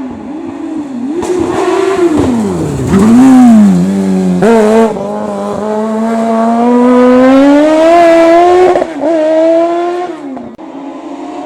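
Race car engine running hard: the revs drop sharply as it slows, then climb in one long steady pull under acceleration, and fall briefly twice near the end.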